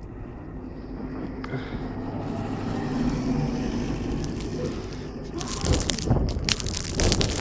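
A motor vehicle passes on a snowy street, its engine and tyre noise building and then fading. From about five and a half seconds in, a dense run of sharp crackles and knocks takes over.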